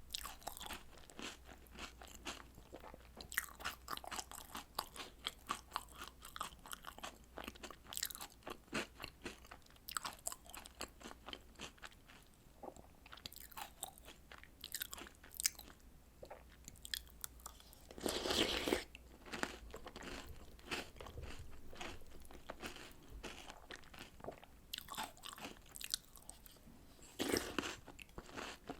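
Close-miked crunching and chewing of chocolate cookies and snacks eaten from a bowl of milk, in quick irregular bites, with a longer, louder spell about two-thirds of the way through and again near the end.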